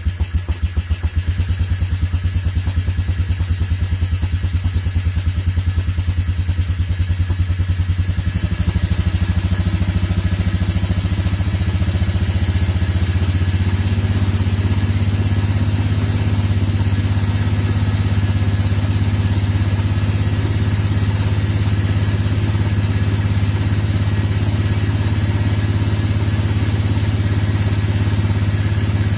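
Motorcycle engine idling rough and uneven just after a cold start in cold weather, firing in distinct lumpy pulses. About eight seconds in it steadies, and it settles into a smoother, more even idle as it begins to warm.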